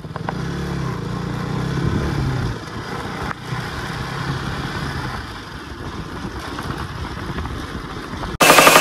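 KTM RC 200 single-cylinder motorcycle engine running while riding, its note rising and falling a little. Loud electronic music cuts in abruptly near the end.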